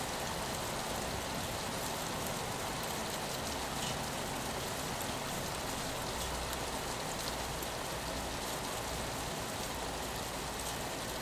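Steady rain falling on a window, an even wash of noise with scattered sharp drop ticks. A low rumble rises underneath about six seconds in and lasts a few seconds.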